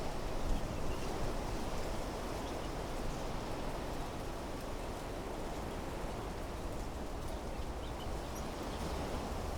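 Steady wind blowing through trees, an even rushing with a low rumble beneath it, and a few faint high chirps near the end.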